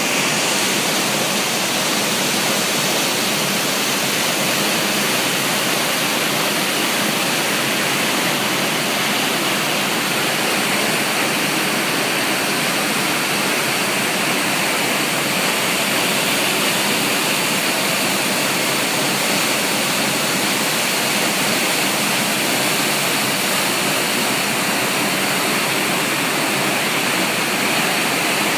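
River swollen by typhoon rain, rushing water making a steady, unbroken noise.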